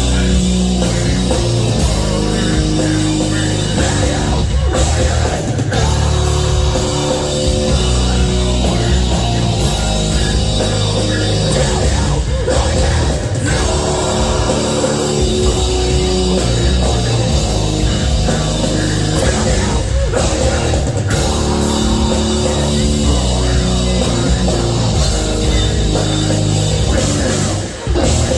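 Live heavy metal band playing loud, with distorted guitars, bass and drum kit, and a brief break near the end.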